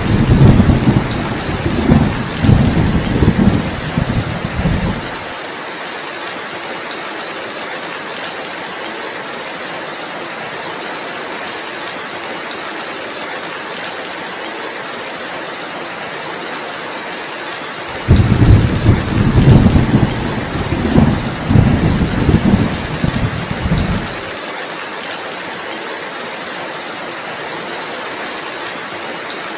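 Steady heavy rain with two rolls of thunder, each lasting about six seconds with several surges. The first is already rumbling at the start and dies away about five seconds in; the second begins about eighteen seconds in.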